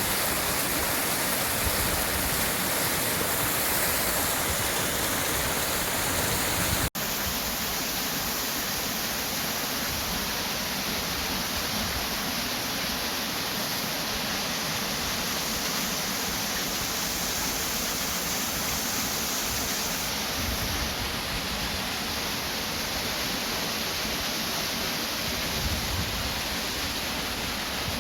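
Steady rushing of flowing water from a stream or small waterfall, with a sudden momentary break about seven seconds in, after which it runs on slightly quieter.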